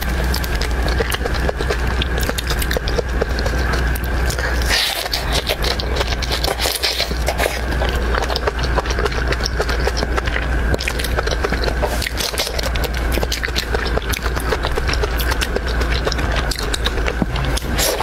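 Close-miked eating of crab and shrimp: dense wet crackling and crunching of chewing, over a steady low hum.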